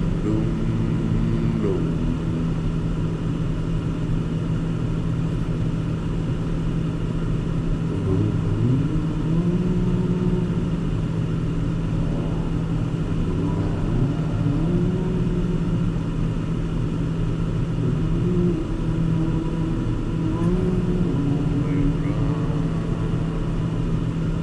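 Car engine and road noise while driving, the engine note rising and levelling off several times as the car accelerates through its gears.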